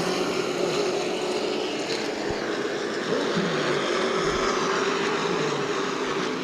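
Race trucks' engines running at speed on an oval track, a steady drone from several trucks whose pitch rises and falls as they pass.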